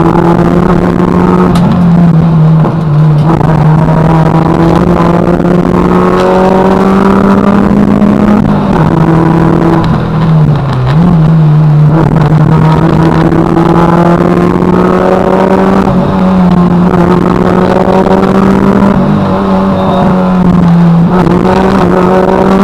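Rally car engine run hard at high revs, heard from inside the car, its note climbing and dropping with gear changes and dipping briefly about ten seconds in.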